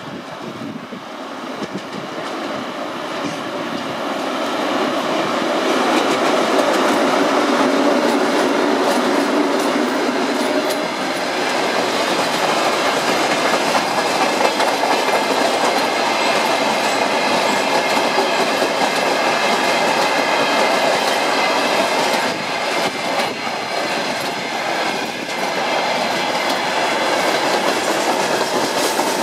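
2TE116U twin-section diesel locomotive passing with its 16-cylinder diesel engines running and growing louder over the first few seconds. A long freight train of hopper and gondola wagons then rolls by, its wheels clattering steadily over the rail joints.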